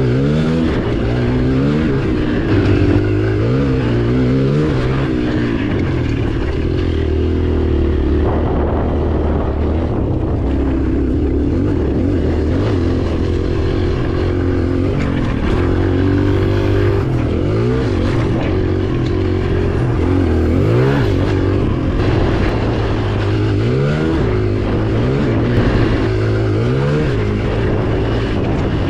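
Dirt bike engine running hard as it is ridden, its pitch rising and falling over and over as the throttle opens and closes.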